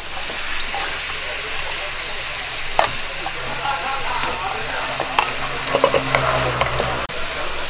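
Egg-and-vegetable omelet batter sizzling steadily as it is poured from a bowl into a hot oiled frying pan. A wooden spoon clicks against the steel bowl a few times, about 3 s in and again around 5 to 6 s.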